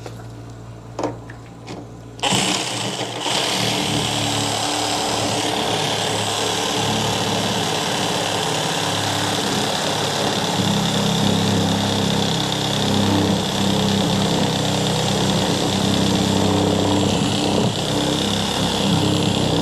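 A power saw starts about two seconds in and runs steadily, cutting through the drain pipe inside the wall.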